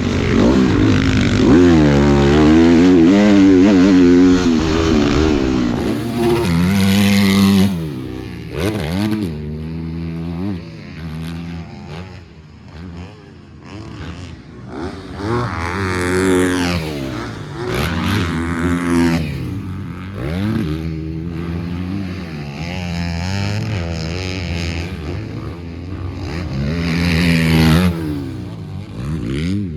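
Motocross dirt bike engine revving up and down hard as it is ridden around the track, loudest at first, then quieter with repeated bursts of acceleration climbing in pitch.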